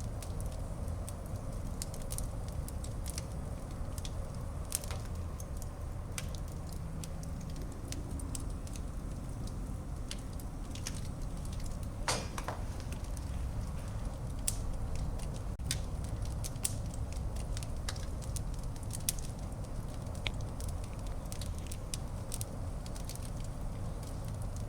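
Wood fire burning in a fireplace: a steady low rumble with frequent scattered crackles and pops. One pop about halfway through is louder than the rest.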